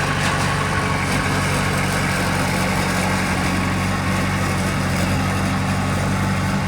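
Heavy diesel engine of an earthmoving machine running steadily at an even speed, a constant low drone.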